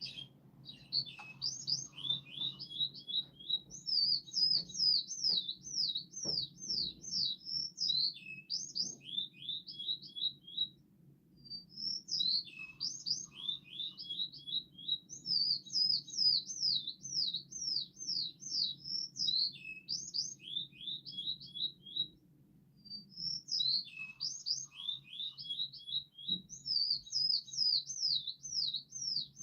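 Bird song: long phrases of rapid, repeated downward-sweeping chirps, pausing briefly about 11 and 22 seconds in, over a low steady hum.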